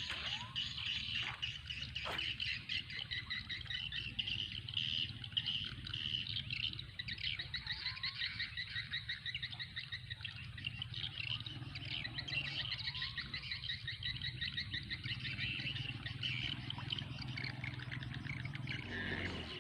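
Birds chirping with rapid, high, repeated trills, over a steady low hum that stops near the end.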